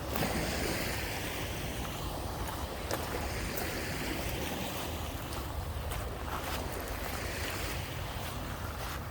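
Lake Michigan waves washing steadily onto the beach, with a low rumble of wind.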